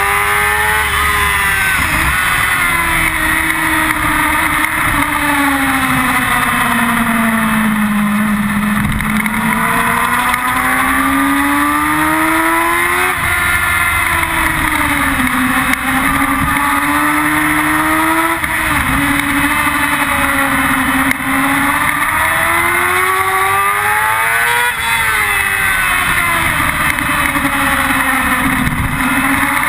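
Yamaha R6's inline-four engine heard from an onboard camera on the bike, running hard on track. The revs wind down slowly and climb again, and drop sharply at upshifts three times.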